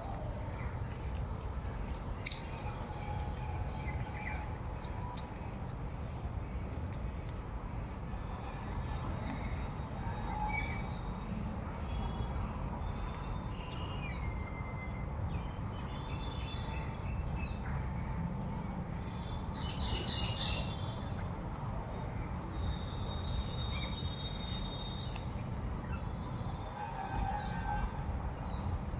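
Small birds chirping and trilling in short scattered calls over a steady high insect drone and a low background rumble, with one sharp click about two seconds in.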